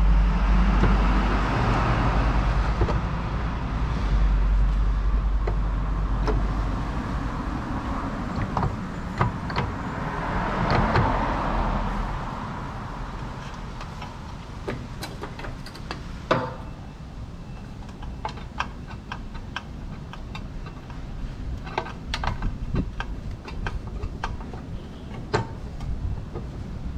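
Vehicles passing twice over a deep rumble, followed by a quieter stretch of scattered light clicks and knocks.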